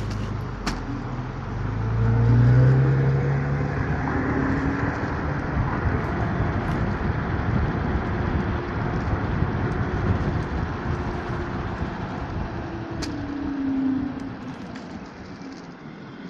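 Road traffic passing close by: a steady rush of road noise with car engines going by, one louder about two seconds in and another falling in pitch near the end as it passes.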